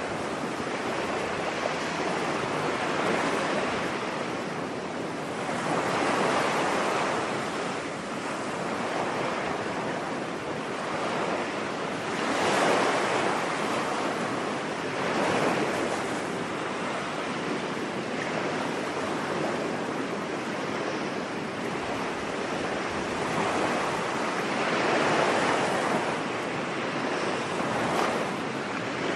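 Ocean waves breaking on a beach: a steady wash of surf that swells every few seconds as each wave comes in.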